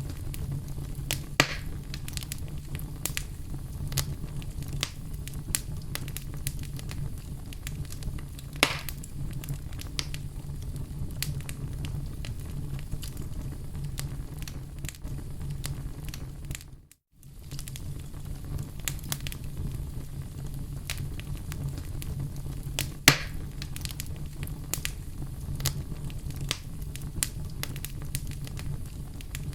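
Wood fire burning in a fireplace: a steady low rumble of flames with frequent crackles and occasional sharp pops, the loudest about 9 s in and again about 23 s in. The sound cuts out for a split second just past halfway.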